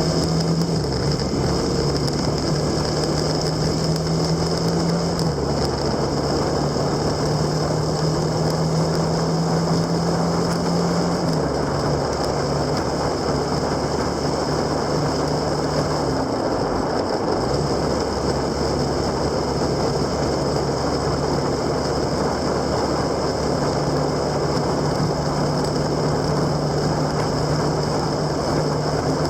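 A motor vehicle's engine running at steady road speed, heard on board under heavy wind and road noise. The engine note drops to a new pitch about five seconds in, rises again about eleven seconds in, and dips briefly between about sixteen and eighteen seconds before settling.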